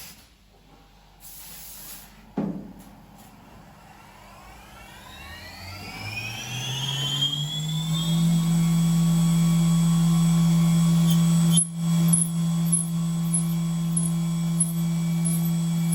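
SYIL X7 CNC mill spindle spinning up: a rising whine over about four seconds that levels off into a steady running tone. A sharp knock comes just before the spin-up.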